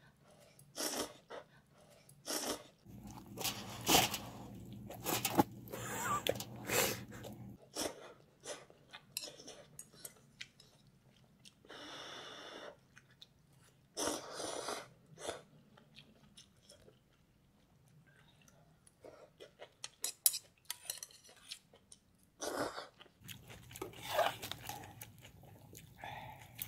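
A person eating ramen noisily, slurping noodles and chewing in irregular bursts with short pauses, and one longer slurp about halfway through.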